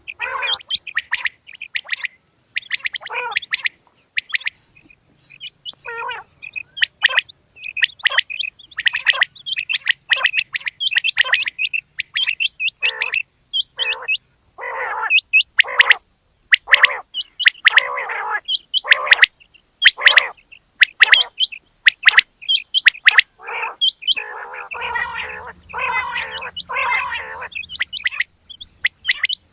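Female quail calling: short calls repeated in quick, uneven succession, coming thicker and closer together in the last few seconds.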